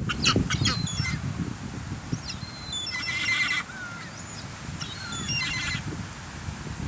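Seagulls calling in three bursts of short, repeated squawks: at the start, around three seconds in, and again around five and a half seconds, over a steady low rumble.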